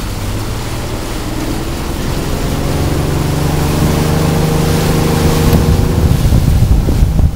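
Motorboat engine speeding up, its pitch and loudness rising gradually over a few seconds as the boat gets under way, with wind buffeting the microphone near the end.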